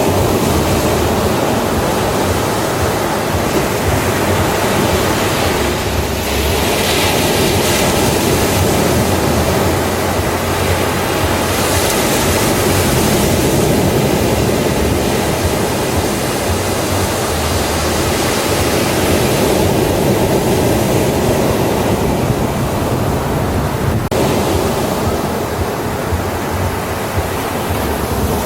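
Ocean surf breaking on a beach: a steady, dense roar of waves, with the hiss of breaking water swelling and easing every few seconds.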